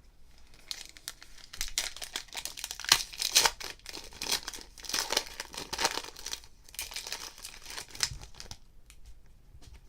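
Plastic trading-card pack wrapper being torn open and crinkled by hand, a run of irregular crackles and rustles that dies away near the end.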